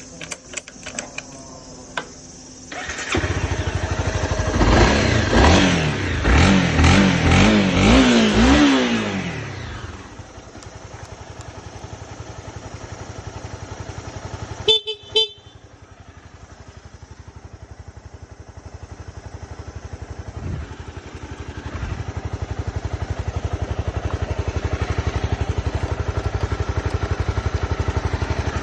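A Honda CBR250R's single-cylinder 250 cc four-stroke engine starts about three seconds in, is revved up several times, and settles to a steady idle. Midway the bike's horn sounds two short beeps. The engine then idles on and grows louder in the last third.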